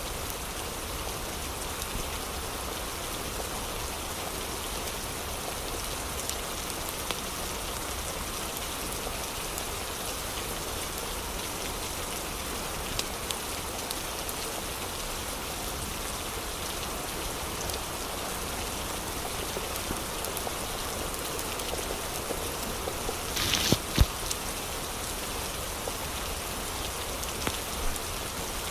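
Steady rain falling and pattering on surfaces. Near the end come a brief louder burst of drips and a single sharp knock.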